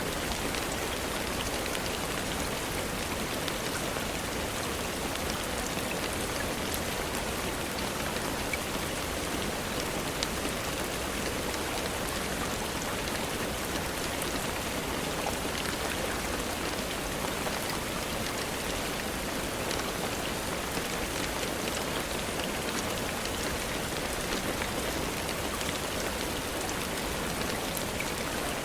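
Steady rainfall, an even hiss with scattered small ticks all through, mixed with the soft crackle of a wood fire in a fireplace.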